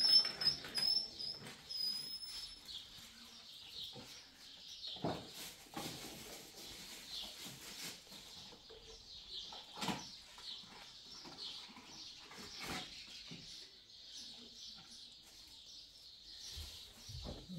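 Birds chirping and twittering, with a high whistled, warbling call over the first couple of seconds and a few scattered soft knocks.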